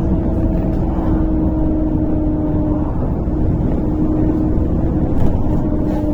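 Inside a MAZ-103 city bus under way: steady engine and road rumble with a constant droning hum. There is a brief knock a little after five seconds in.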